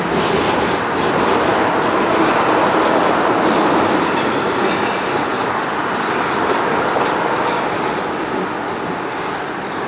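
Freight cars rolling past on steel rails, wheels grinding along the track with a thin high wheel squeal in the first few seconds. The noise eases off a little as the last boxcar goes by near the end.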